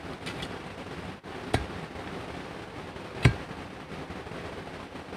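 Two sharp hammer strikes on stone, about two seconds apart, the second the louder, over a steady background hiss.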